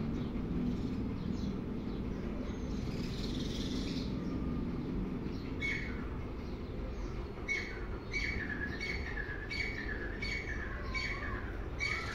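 A bird chirping over and over, short calls with a falling tail about every half second, starting about halfway through, over a steady low background rumble.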